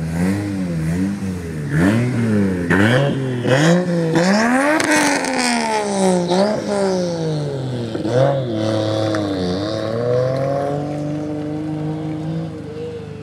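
Lexus IS 300's turbocharged 2JZ straight-six being revved repeatedly, its pitch climbing and falling in quick blips, the highest revs about four to five seconds in, then settling back toward idle near the end.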